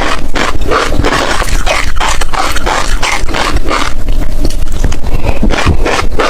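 Close-miked crunchy chewing of seeds, a rapid run of crisp crunches about two to three a second.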